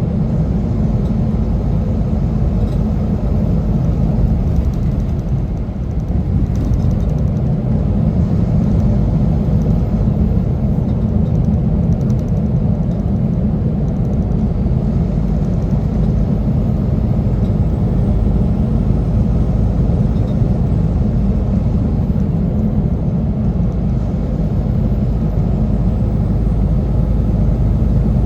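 Semi truck driving, a steady low rumble of engine and road noise.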